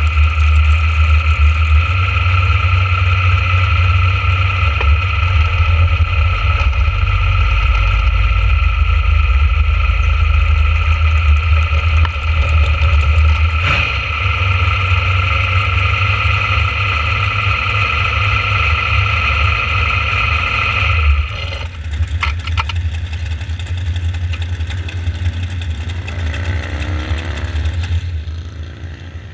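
Dragster engine running steadily at idle, heard from a camera mounted on the car, with a deep rumble and a steady high tone. About three-quarters of the way through the high tone stops and the sound drops to a quieter, lower running.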